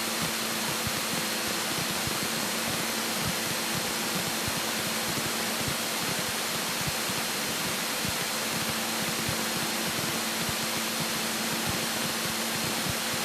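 Cessna 172K's four-cylinder Lycoming O-320 engine and propeller running steadily at about 2,000 RPM cruise, heard inside the cabin as an even rushing drone with a faint steady hum under it.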